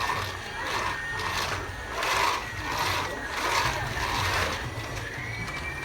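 Battery-powered toy vacuum cleaner running: a small electric motor whirring with a thin steady high whine, swelling and fading about every two-thirds of a second.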